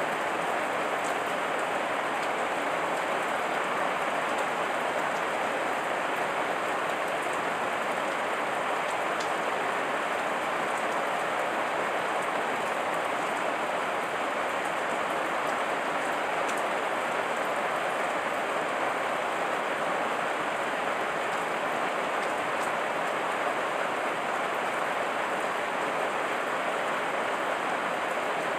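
Heavy rain falling steadily as an even hiss, with faint scattered drop ticks.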